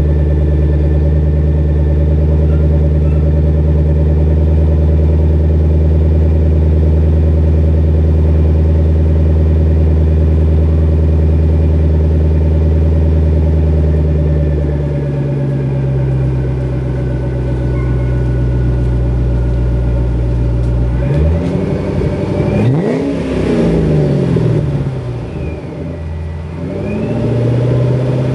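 Supercharged Ford Mustang GT 4.6-litre V8 idling steadily, the idle settling a little lower about halfway through, then blipped a few times near the end, each rev rising and falling, with a supercharger whine rising with the revs.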